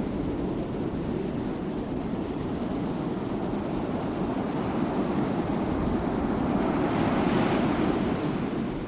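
Sea waves breaking and washing in a steady rush, swelling slightly near the end.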